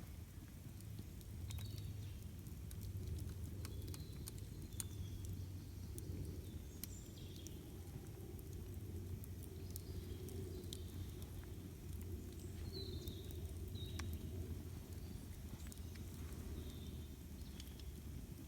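Wood campfire crackling, with sharp irregular pops over a low steady rumble. Short high bird chirps come in now and then.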